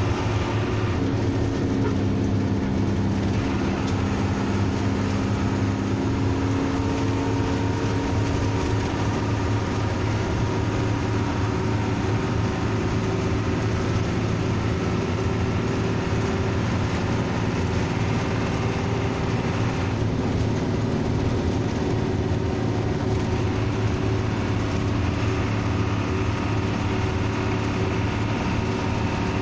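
Bus engine running steadily: a low, even drone with a few higher tones that change pitch now and then.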